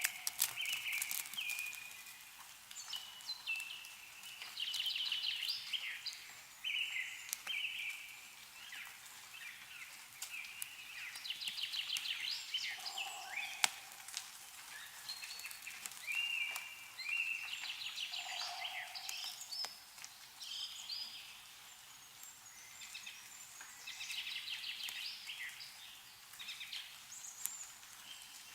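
Songbirds singing short repeated phrases and trills, one after another, with a few lower calls. Scattered sharp ticks of meltwater dripping from snowy trees.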